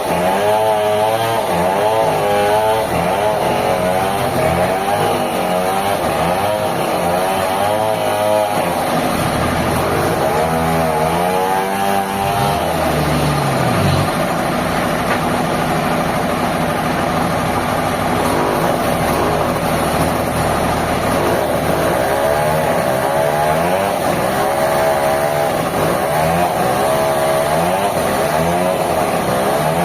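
Sawmill machinery running: an engine-driven saw whose pitch rises and falls again and again as it labours under the load of the cut, steadier for a stretch midway.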